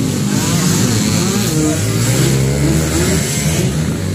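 Motocross dirt bike engines running and revving.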